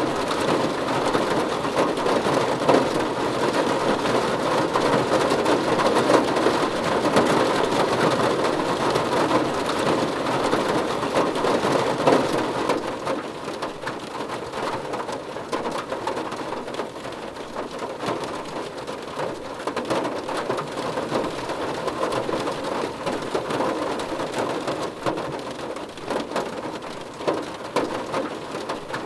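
Steady rain falling on a surface, a dense hiss full of small drop patters. It eases off and grows softer a little before halfway through.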